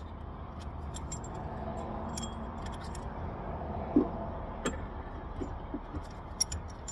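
Light metallic clinks and clicks of tools and brake parts being handled, scattered and irregular, with the sharpest one about four seconds in and a few more near the end, over a steady low background hum.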